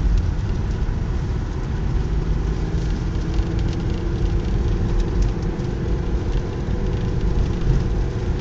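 Steady engine and tyre rumble of a car driving up a snowy road, heard from inside the car.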